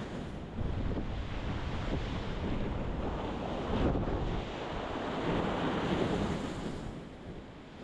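Ocean surf breaking and washing against a rocky shore in a steady, rolling rush of water that eases off near the end.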